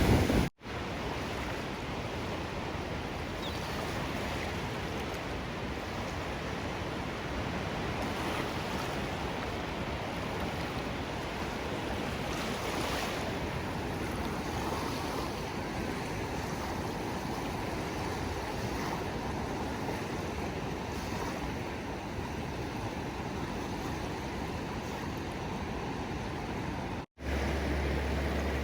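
Ocean waves: a steady hiss of surf. It breaks off in two short gaps of silence, about half a second in and near the end, and after the second gap a steady low rumble joins it.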